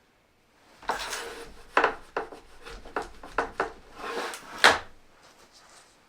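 Wooden hand loom being worked in weaving: sliding, rubbing wood with a run of sharp wooden knocks, the loudest knock about three quarters of the way through.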